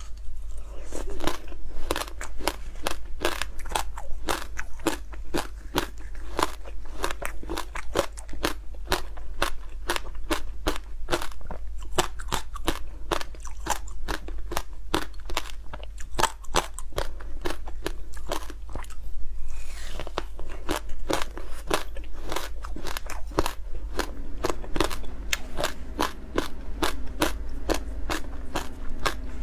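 Close-up crunching and chewing of frozen passion fruit: a dense run of crisp crackles, several a second, with a brief pause about twenty seconds in.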